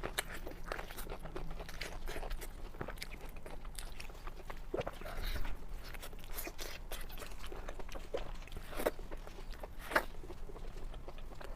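Close-miked eating: crisp, crunchy bites and chewing in an irregular run, with a few louder crunches around the middle and near the end.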